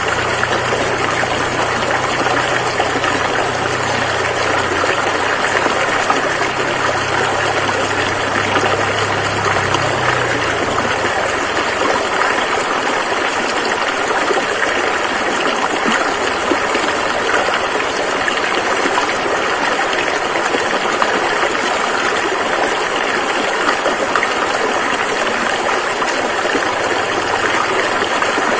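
Rushing river: a steady, full rush of flowing water. A low hum underneath fades out about a third of the way in.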